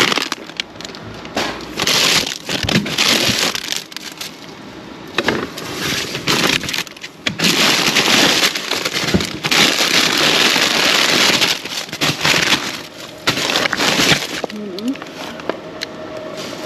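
Plastic bags and food packaging rustling and crinkling as discarded groceries are rummaged through, in uneven bursts with scattered clicks and knocks.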